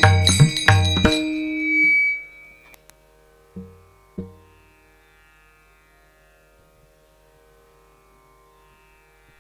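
The close of devotional kirtan accompaniment: a drum and small hand cymbals strike a last few beats in the first second, and a held note rings on and dies away by about three seconds. Two soft drum strokes follow near four seconds over a faint lingering drone.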